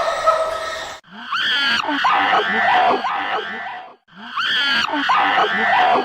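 Recorded animal calls from a compilation of animal sounds: a noisy call ends about a second in, then one stretch of pitched, bending animal cries plays twice in a row, each time about three seconds long.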